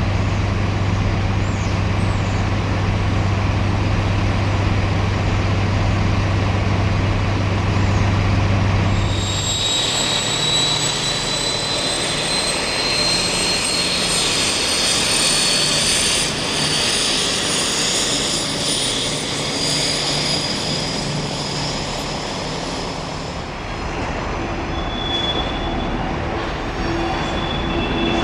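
A train at a railway station: a steady low hum for the first nine seconds or so, then a high whine that rises slowly in pitch for about thirteen seconds, as of a train pulling away and gathering speed, settling to steadier high tones near the end.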